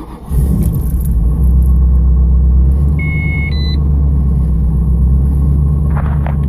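1987 Pontiac Trans Am's 305 LB9 V8 catching from cranking on a cold start and settling straight into a steady fast cold idle. A short electronic beep sounds about three seconds in.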